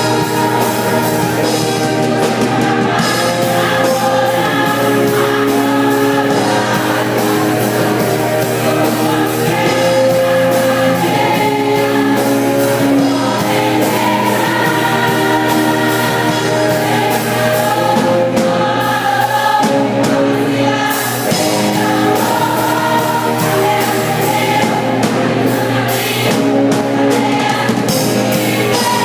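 A choir singing a gospel hymn with instrumental accompaniment.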